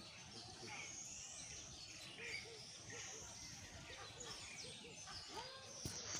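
Faint outdoor ambience: birds chirping and calling over a low background hiss.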